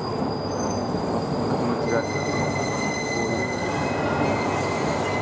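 JR Kyushu electric train coming into the platform: a steady rumble of wheels on rail, with high steady squealing tones joining about two seconds in.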